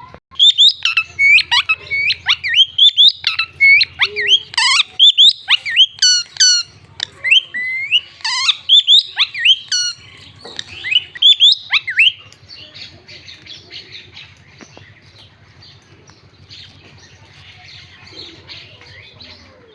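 Indian parrot calling: a rapid run of loud, sharp screeches, several a second, for about twelve seconds, then it drops to soft, quiet chattering.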